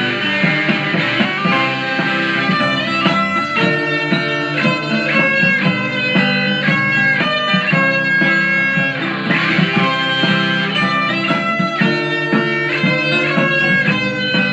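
Instrumental break in a country-folk song: a guitar picks a melody in quick single notes over a steady backing, with no singing.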